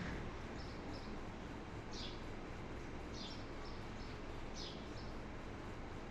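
Alexandrine parakeets giving short, high chirps, about seven in six seconds, some sliding quickly down in pitch, over a steady low background hum.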